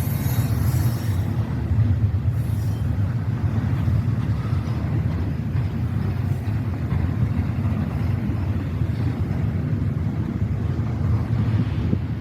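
Freight train rolling slowly past, a steady low rumble of its cars on the track.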